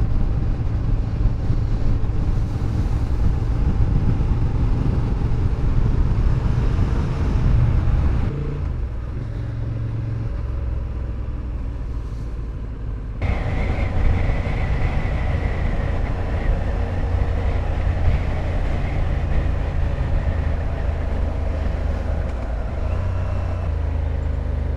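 Motorcycle engine and wind rush heard while riding, mostly a loud low rumble. It eases off about eight seconds in, then the sound changes suddenly about thirteen seconds in and stays steady.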